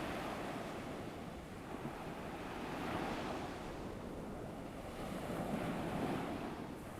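Ocean waves washing on a beach: a soft, steady surf that swells and eases slowly, two gentle surges in the space of a few seconds.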